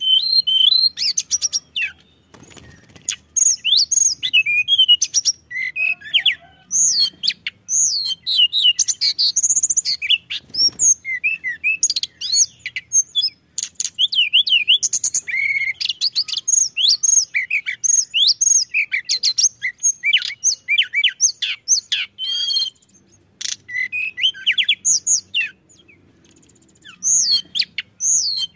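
Tledekan gunung bird singing vigorously: a long, varied run of high chirps, whistled notes and rapid trills, broken by a few short pauses.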